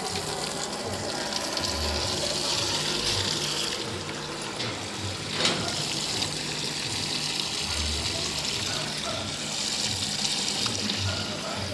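Water pouring steadily as potted plants are watered, with one short knock about five and a half seconds in.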